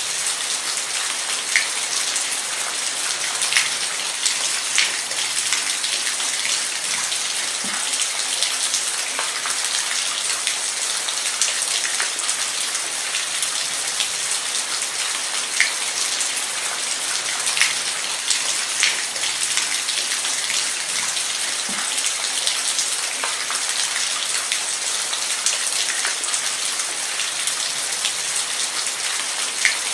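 Steady rain falling on a surface, an even hiss with scattered louder individual drops.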